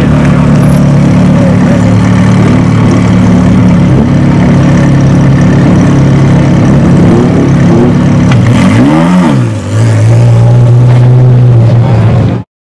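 Ferrari 360 Challenge Stradale's mid-mounted V8 idling steadily, with one quick blip of the throttle about nine seconds in that rises and falls in pitch before it settles back to idle. The sound cuts off suddenly near the end.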